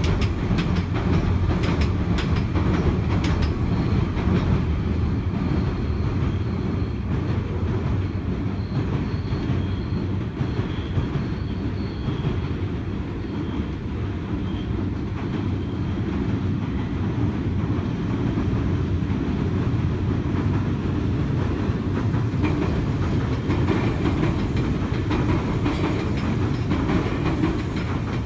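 Meitetsu electric trains rumbling and clattering across a steel girder railway bridge. One train is crossing at the start, the sound eases a little midway, and another train comes across near the end.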